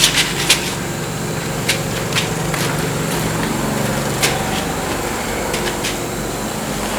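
A steady low mechanical hum, like an engine running, with a few sharp metallic clicks and knocks scattered through it, mostly in the first second.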